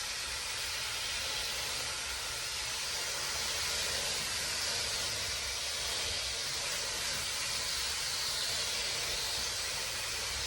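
Steady spray of water from a hose rinsing a car's windshield, an even hiss that keeps up without a break.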